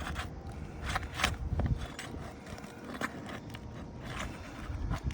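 Hand tools working an asphalt roof shingle loose: irregular scrapes, clicks and knocks of a pry bar against the shingle and its nails as the fasteners are worked free.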